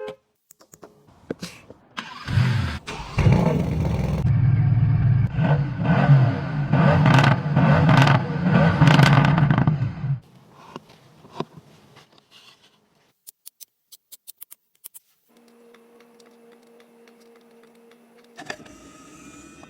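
A car engine starting and revving loudly for about eight seconds, in repeated surges, then dropping away to faint clicks and a low steady hum.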